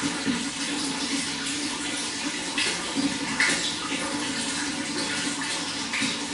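Water running steadily, with small gurgles and splashes breaking through every second or so.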